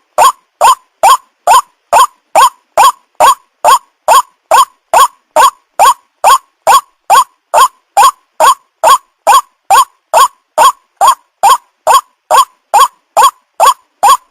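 White-breasted waterhen calling: a short call repeated steadily and evenly about two and a half times a second, with clean gaps between calls.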